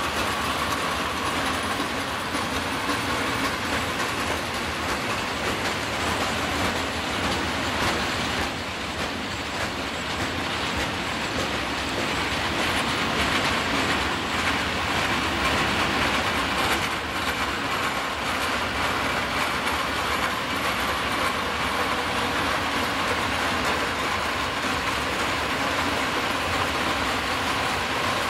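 Freight train of PKP Cargo covered hopper wagons rolling past on electrified main line track, wheels clicking over rail joints in a steady rolling rumble. A faint steady whine sits over it at the start and again near the end.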